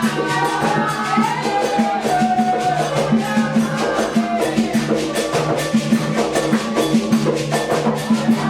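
Candomblé ritual music for Xangô: atabaque hand drums and a struck bell or rattle keep up a fast, steady rhythm, with singing over them.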